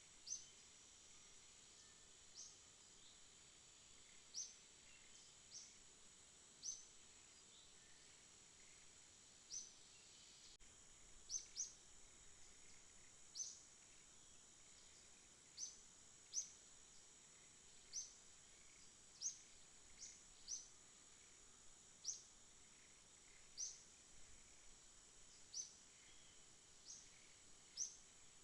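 Faint night ambience: a steady high insect drone, with short high chirps repeating irregularly every second or two.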